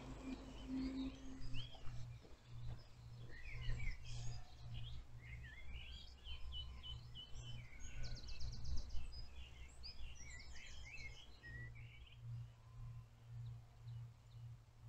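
Several songbirds singing at once, a busy mix of short chirps and warbles with a fast rattling trill about eight seconds in, thinning out towards the end. A low pulsing rumble runs underneath.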